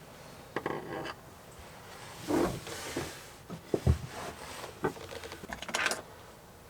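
Irregular knocks, thumps and rustles of hands-on work with parts and tools in a cramped space. The loudest is a dull thump about four seconds in.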